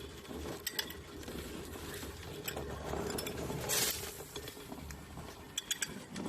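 Small power-bank-driven electric grain grinder running: a steady low motor hum with scattered sharp clicks and clinks, and a brief hiss a little under four seconds in.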